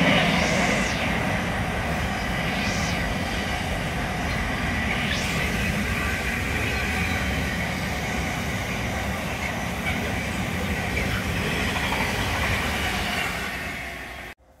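A container freight train's wagons running past close by, a steady rumble and rattle of wheels on rail with a faint high whine and a few brief higher-pitched swells in the first five seconds; it cuts off abruptly near the end.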